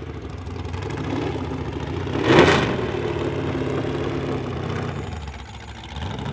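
Pre-1966 sports racing car engines running, with one car passing close by about two and a half seconds in.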